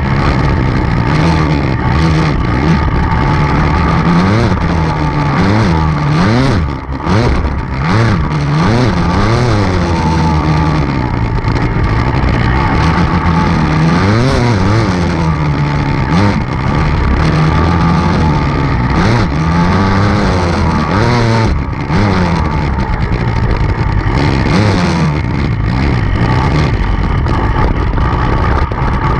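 Enduro dirt bike engine being ridden hard, the revs rising and falling every second or two with the throttle and gear changes. The throttle briefly closes about a quarter of the way in and again about two-thirds of the way through.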